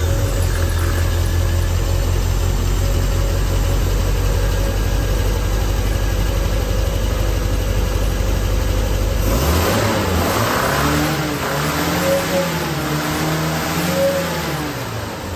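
Triumph Spitfire Mk3 four-cylinder engine running just after starting, first at a steady fast idle, then revved up from about nine seconds in, held, and let back down near the end. It is a test run on the flushed gas tank with the clogged fuel line cleared.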